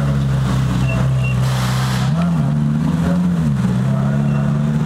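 Ferrari F430 Challenge race car's 4.3-litre V8 idling steadily, with two brief small rises in revs, about two seconds in and again about three and a half seconds in.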